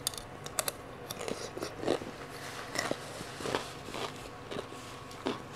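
Close-miked chewing of a mouthful of crunchy Thai papaya salad, with irregular crisp crunches as it is bitten and chewed.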